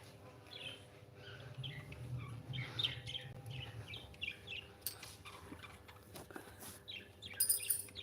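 Small pet parrots, budgies and cockatiels, chirping softly in short, scattered calls, with a brief high hiss about seven and a half seconds in.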